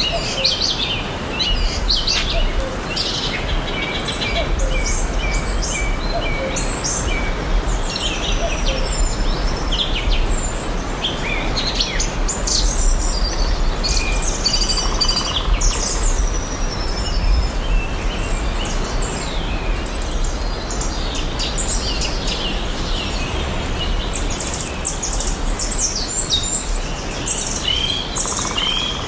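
Several songbirds chirping and singing, a dense run of short calls and trills that goes on throughout, over a steady background hiss with a low rumble.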